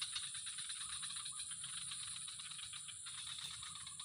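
Fast, even rattling pulses over a steady high-pitched whine, in the manner of a chorus of insects.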